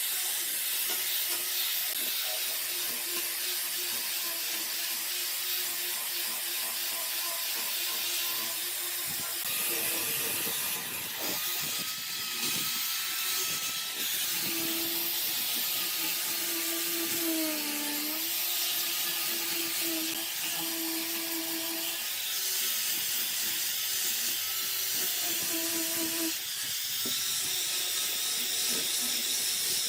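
A power tool running with a steady hiss, over a faint motor hum that comes and goes and dips in pitch briefly just past halfway.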